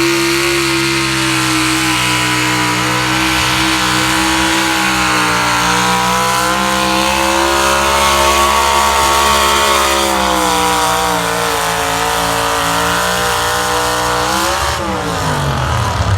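Diesel pulling truck's engine at full throttle under the load of the pulling sled, holding high revs with small rises and dips in pitch, then falling away near the end as it comes off the throttle at the end of the pull.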